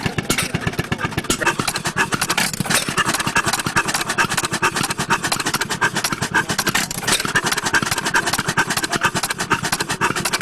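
An old tractor engine running at a steady speed, with a rapid, even exhaust beat of about seven to eight pulses a second.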